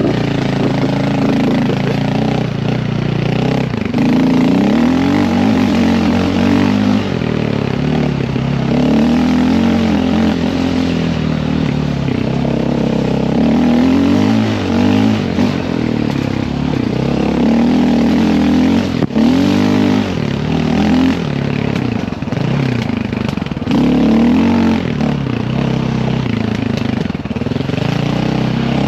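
Dirt bike engine being ridden, its revs climbing and falling again and again.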